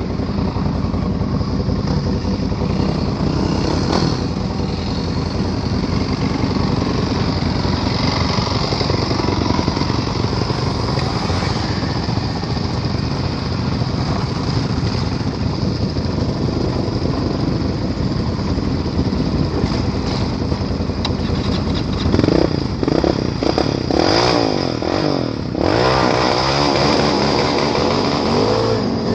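Can-Am Renegade ATV engine running while riding off-road, with a steady loud rumble. In the last several seconds the engine revs up and down repeatedly.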